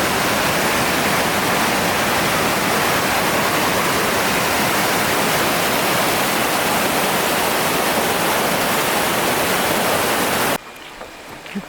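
Waterfall, a loud steady rush of falling water. It cuts off abruptly about a second before the end, leaving much quieter surroundings with a few faint knocks.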